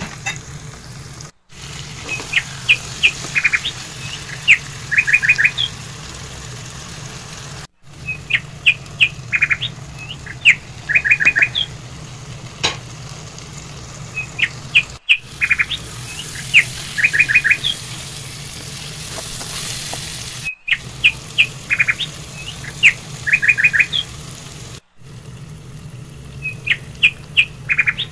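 A bird chirping over and over: a few single upswept chirps, then a quick run of four or five notes, repeating every couple of seconds. Under it is a low steady hum, broken by a few brief silent gaps.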